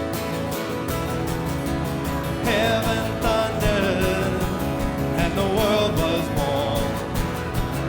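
Live worship band playing with a steady drum beat. The bass comes in about a second in, and a wavering melody line enters about two and a half seconds in.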